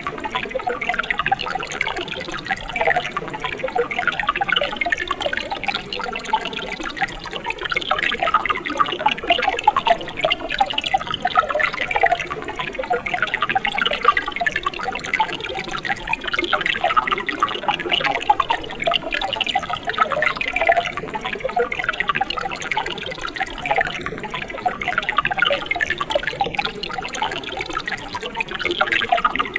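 Mountain stream flowing and splashing over rocks, a steady babble of many small splashes and gurgles.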